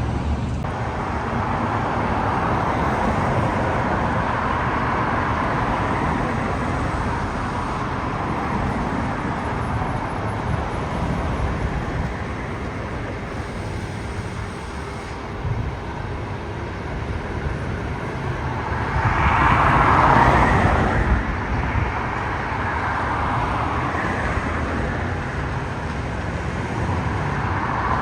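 Steady road traffic noise from passing cars, with one vehicle passing louder about two-thirds of the way through.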